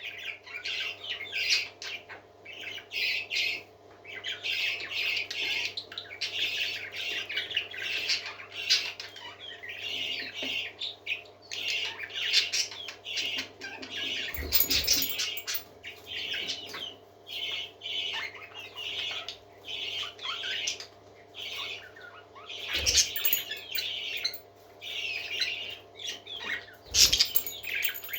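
Parakeets chattering, chirping and squawking continuously, many quick calls overlapping. A few short low thumps come through about halfway in and again near the end, over a faint steady hum.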